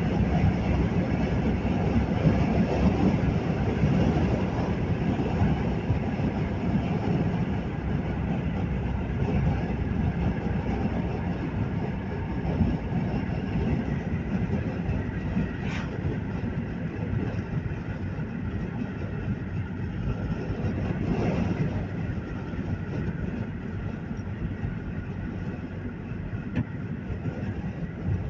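Steady rumble of a vehicle driving along a road, engine and tyre noise, easing a little in the second half.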